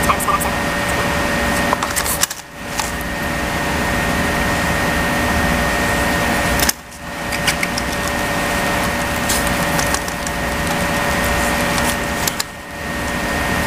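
A small motor running with a steady whir and constant hum. It cuts out briefly three times and builds back up over about a second each time.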